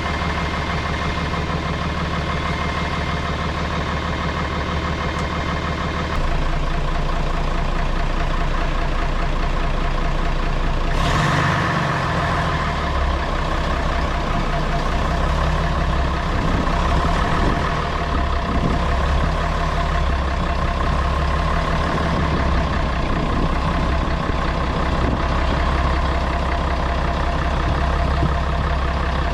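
Scania BR111 bus's diesel engine running steadily; it gets louder about six seconds in. A sudden burst of hiss comes about eleven seconds in, and after it the engine note shifts up and down.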